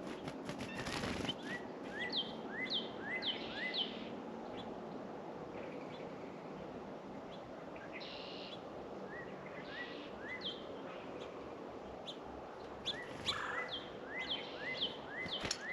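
Songbirds calling: series of short, quick rising chirps repeated about twice a second, in three bouts, over a steady outdoor hiss.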